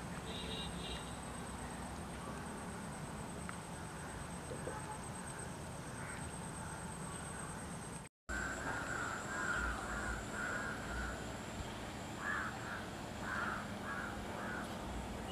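Outdoor ambience with a faint steady high whine. After a brief dropout about eight seconds in, a bird calls over and over in a series of short calls.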